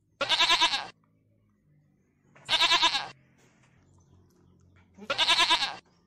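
A goat bleating three times, each a quavering call of just under a second, about two and a half seconds apart.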